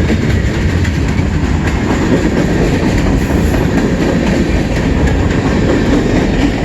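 CN train's cars rolling by on the rails: a loud, steady rumble with faint wheel clicks over the rail joints.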